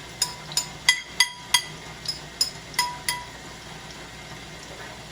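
A metal spoon clinks against metal cookware about a dozen times in quick, uneven strokes, each with a short ring, as fritter batter is scooped and portioned; after about three seconds only a faint steady hiss remains.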